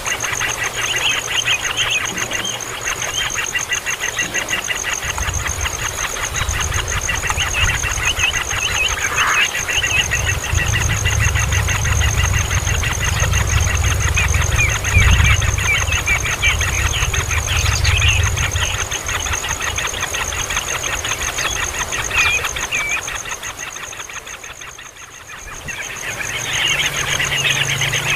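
Baby birds chirping constantly in short, high calls. A steady high-pitched tone runs underneath, and a low rumble joins in the middle. The chirping fades briefly and then comes back louder near the end.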